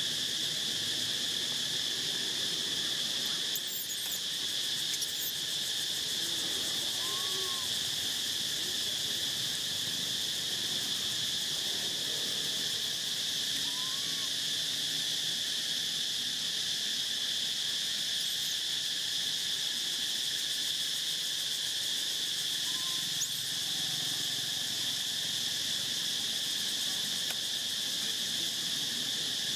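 Steady, unbroken high-pitched insect chorus with no rhythm or break. A few faint short chirps rise and fall over it, several seconds apart.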